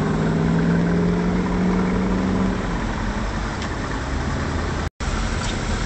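Chevrolet Corvette V8 engine running at low, steady revs as the car rolls slowly past. Its drone holds one pitch for about two and a half seconds, then fades. The sound cuts out briefly near the end.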